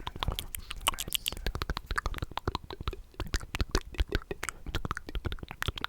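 Close-miked ASMR mouth sounds: rapid, wet tongue and lip clicks and smacks, several a second and uneven in spacing.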